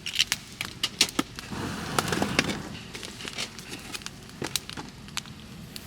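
Campfire of burning firewood crackling, with many irregular sharp pops and a louder rustling stretch about two seconds in.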